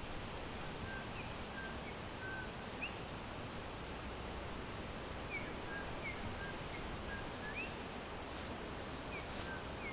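Small forest birds chirping: short, scattered chirps, some sliding up and some down, over a steady hiss of background noise.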